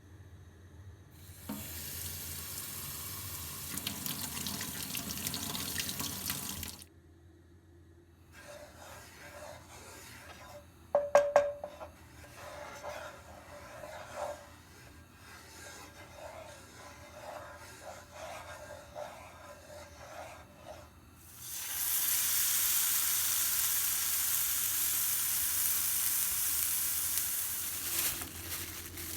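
Water running from a tap into a sink for a few seconds, shutting off, then light clicks and knocks with a sharp clatter a few seconds later, before the tap runs again, louder, for about six seconds.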